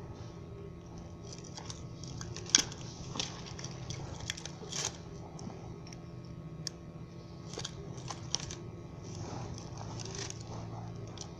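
Irregular clicks, taps and knocks of small metal and plastic parts and tools being handled while a high-pressure washer is taken apart, the sharpest knock about two and a half seconds in, over a faint steady hum.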